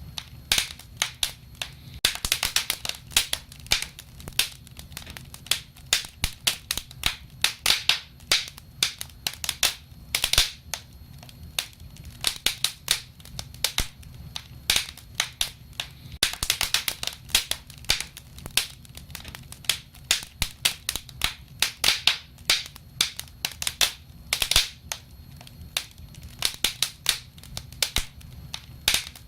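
Wood fire crackling: irregular sharp pops and snaps, with denser flurries of crackling every several seconds, over a low steady rumble of the flames.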